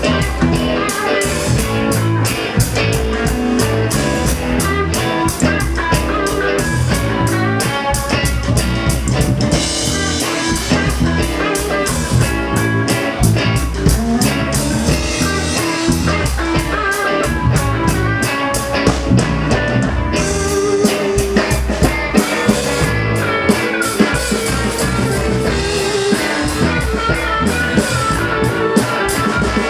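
Live rockabilly-blues band playing an instrumental break: guitar over bass and a drum kit keeping a steady beat, with no singing.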